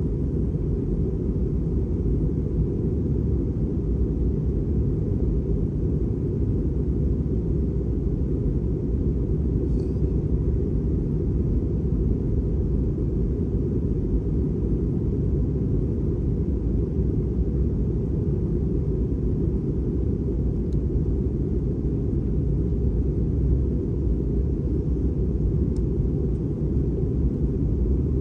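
Steady low rumble of an Airbus A320 airliner's engines and airflow heard inside the passenger cabin, even and unchanging, with a few faint ticks.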